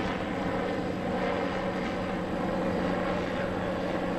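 Steady drone of an aircraft engine, most likely a news helicopter filming the chase, with a constant low hum and no change in pitch.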